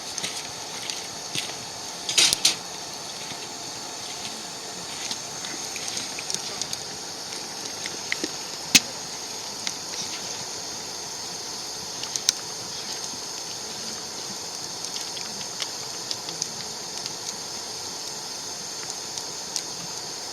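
Wood fire burning with a steady hiss and scattered crackles and pops, a quick cluster about two seconds in and one sharp pop near the middle.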